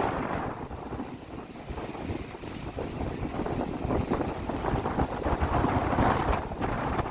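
Wind buffeting the microphone outdoors by the water, an uneven low rumble that swells and fades.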